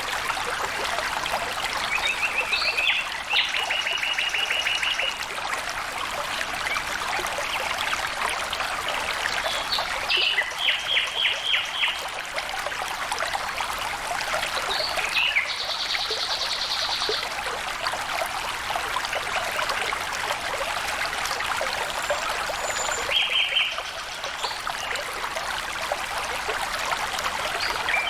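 Flowing water running steadily over stones, with a bird calling in short, rapid trills four times.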